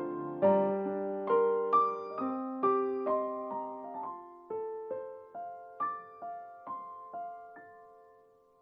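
Background piano music: a slow run of single notes and chords, each struck and left to ring. It thins out and fades away near the end.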